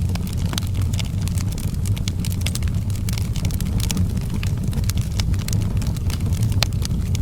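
Outdoor wood fire crackling, with many sharp, irregular pops and snaps over a steady low rumble.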